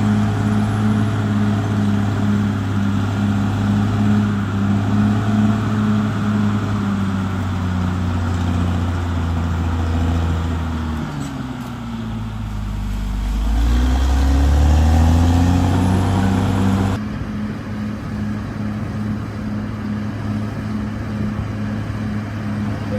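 Diesel engine of heavy earthmoving equipment running steadily. About halfway through, its engine speed drops and then climbs back up. About three-quarters of the way in, the sound changes abruptly to a thinner engine note.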